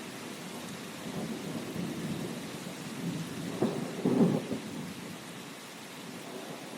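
Steady rain falling, with low rolling thunder under it that peaks in two louder rumbles a little past the middle, then dies away, leaving only the rain.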